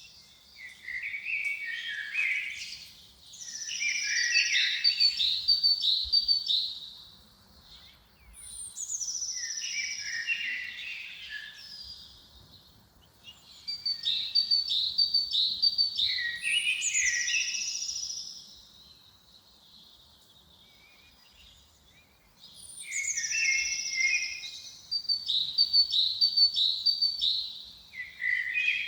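A songbird singing the same phrase over and over, about every five seconds. Each phrase opens with a high, falling whistle and runs into a cluster of lower notes and a quick series of high notes, with short pauses between phrases.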